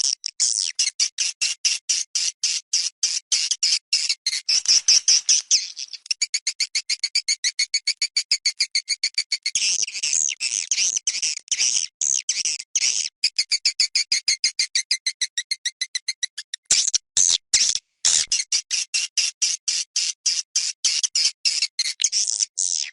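Looped recording of swiftlet calls played as a lure sound for swiftlet houses: a continuous stream of short, high-pitched chirps, several a second, running faster in the middle, with a brief break about three-quarters of the way through.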